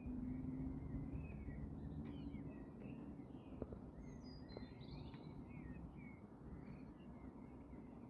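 Faint chirping and twittering of small birds outdoors, many short notes overlapping. A low steady hum sits under them for the first couple of seconds.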